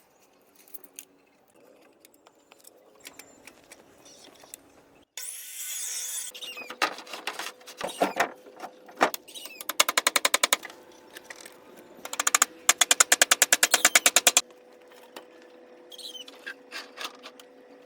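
A power tool hammering in rapid, even strokes, about a dozen a second, in two runs of roughly one and two seconds. A short loud hiss comes before them, with faint scattered clicks and knocks at the start.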